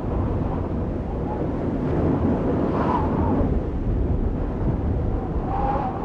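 Audience noise in a large hall: a steady low rumble, with faint voices calling out about three seconds in and again near the end.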